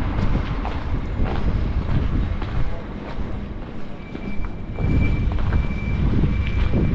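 Street traffic noise from passing vehicles, with wind buffeting the microphone in low rumbles. A thin, steady high tone starts about four seconds in.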